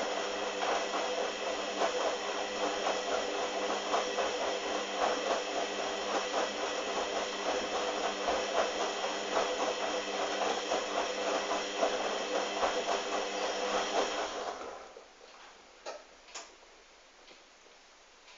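Hoover washing machine running, its motor giving a steady whine with a fast rattle from the drum, then cutting out about fifteen seconds in, followed by a couple of sharp clicks.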